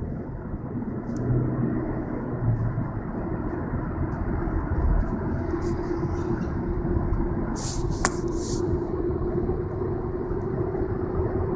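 Continental tyres humming on the road while the car drives: a steady drone of road noise with a hum tone that grows clearer a few seconds in and holds. It sounds like a bad wheel bearing, but the hum is the tyres. A brief click about eight seconds in.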